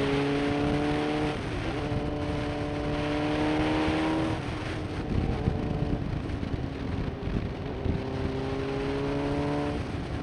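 Suzuki GSX-R SRAD's inline-four engine accelerating under way, its note climbing slowly with a brief break for a gear change about a second and a half in. The note falls away about four and a half seconds in, leaving mostly wind rush, then comes back and climbs again near the end.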